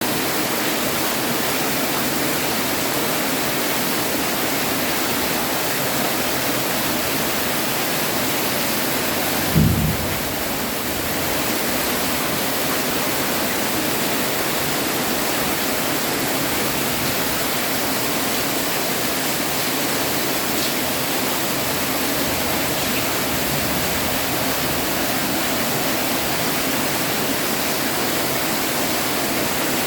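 Heavy rain falling steadily, an even hiss with no letup. A single short low thump comes about ten seconds in.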